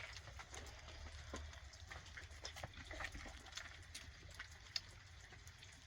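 Light rain falling, faint and steady, with irregular drops tapping.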